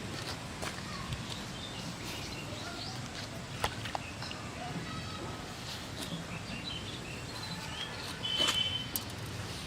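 Birds chirping over steady outdoor background noise, with a few sharp clicks.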